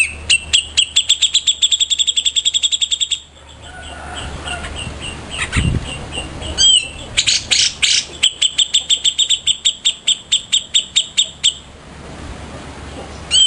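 A cica jenggot songbird singing two long bouts of rapid, evenly repeated sharp notes, about eight a second. The bouts are separated by a pause of a few seconds holding scattered notes and a short swooping call. A brief low thump falls near the middle.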